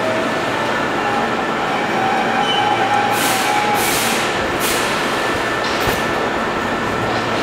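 Hankyu 6300 series electric train pulling into a station platform: steady running noise with thin whining tones, and three short hissing bursts about halfway through.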